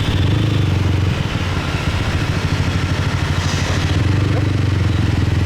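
Motorcycle with a loud exhaust running while riding, a low steady engine note that turns rougher and more pulsing in the middle and steadies again near the end, over wind and street noise.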